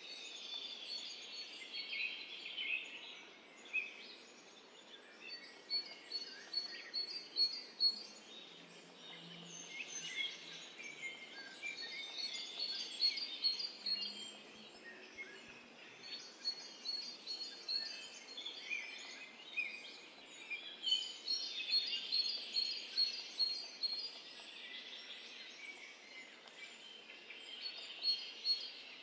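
Birds singing and chirping, with one bird repeating a quick run of high notes every few seconds over a faint outdoor hiss.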